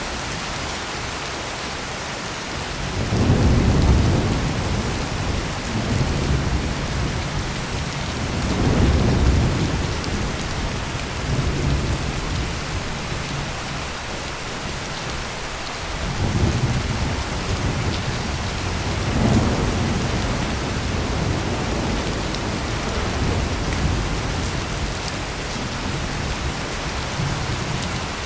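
Heavy rain pouring in a steady hiss, with deep thunder rumbling and rolling in several waves over it, the loudest swell about three to four seconds in.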